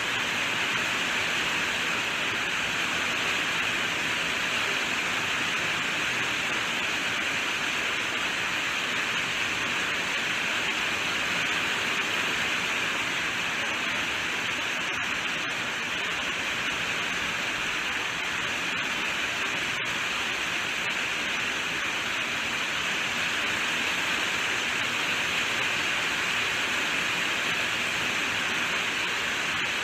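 Steady rainfall: a dense, even hiss with no separate drops or thunder standing out.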